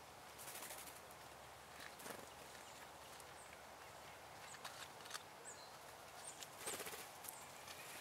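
Faint outdoor wildlife sounds: a few very short, high-pitched bird chirps in the second half, with brief scratchy rustles and ticks at intervals.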